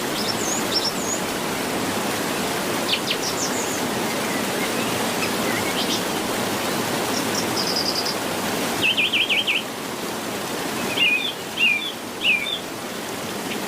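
Wild birds chirping and calling over a steady hiss of outdoor background noise, with a fast warbling trill about nine seconds in and three louder calls near the end.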